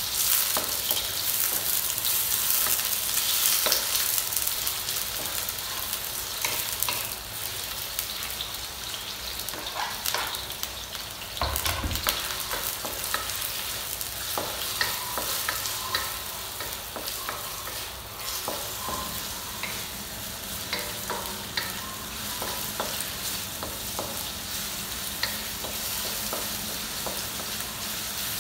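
Sliced red onions and garlic sizzling in oil in a stainless steel wok, stirred with a wooden spatula that scrapes and clicks against the metal. The sizzle is loudest in the first few seconds, and there is one dull knock about twelve seconds in.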